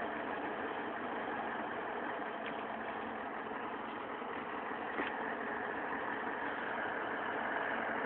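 Scania 143M 450 truck's V8 diesel engine running steadily, with a brief click about five seconds in.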